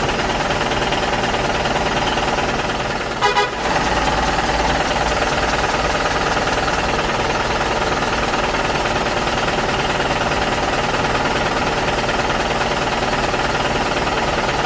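An engine running steadily throughout, with a short double horn toot about three seconds in.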